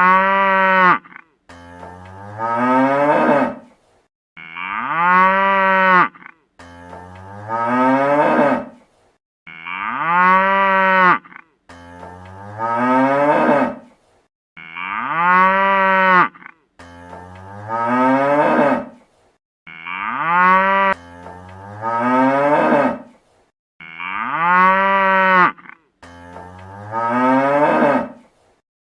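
A calf mooing again and again, about one call every two and a half seconds. Each call starts low and rises in pitch, growing louder toward its end.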